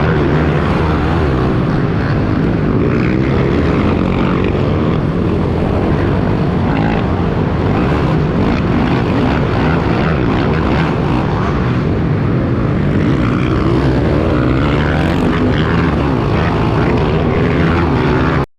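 Small pit-bike motorcycle engine running hard, its revs rising and falling. It cuts off suddenly near the end.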